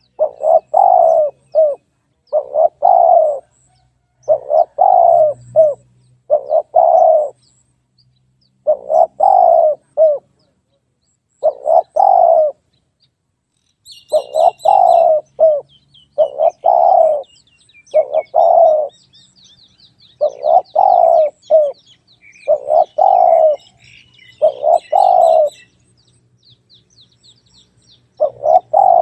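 Spotted dove cooing, its short multi-note phrase repeated about every two seconds with a few longer pauses. Faint, higher chirping from smaller birds runs underneath through the middle part.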